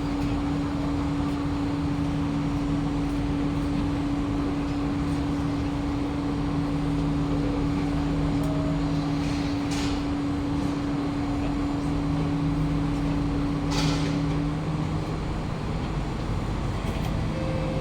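Interior hum of a Kawasaki-CRRC Sifang C151A metro train standing at a station platform: steady equipment and ventilation noise with a held low tone that fades out about three seconds before the end. Two brief knocks or clicks come late on.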